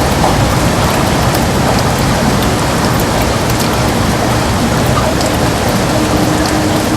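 Heavy rain on a window: a steady, dense hiss of rainfall with individual drops ticking sharply on the glass and a deep rumble underneath.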